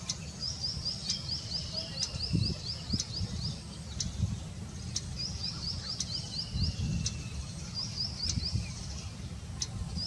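Bird calling: a rapid run of short high notes, about seven a second, repeated in bursts of one to two seconds four times. Each of the first two bursts is followed by a fainter, drawn-out falling note, all over a low background rumble.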